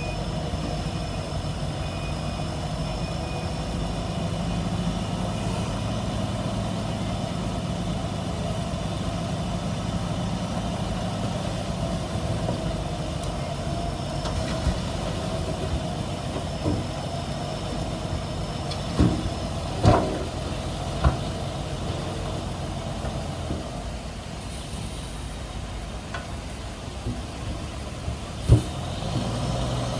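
Heavy diesel earthmoving machine's engine running steadily, with a cluster of sharp knocks about two-thirds of the way through and another single knock near the end.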